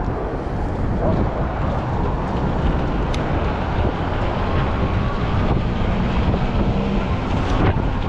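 Strong wind blowing across the microphone as a dense, steady rumble, with vehicle and road noise underneath.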